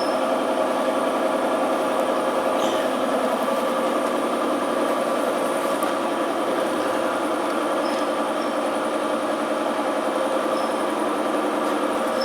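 An engine idling steadily, with a few faint, brief high chirps over it.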